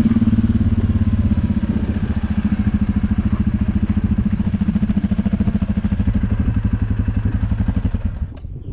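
UTB Universal 650 tractor's four-cylinder diesel engine running steadily with an even low pulsing beat, then shut off about eight seconds in.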